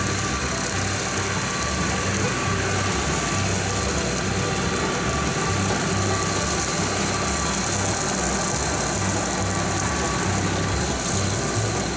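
Kubota L3901 diesel tractor running steadily under load while pulling a Land Pride RCR1860 rotary cutter through a meadow.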